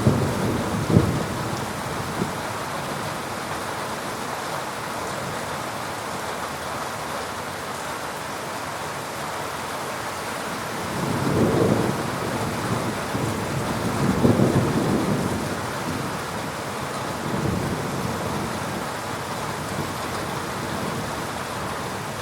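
Heavy rain falling steadily through a thunderstorm, with a sharp crack of thunder about a second in, then two low rolls of thunder about halfway through and a weaker one a few seconds later.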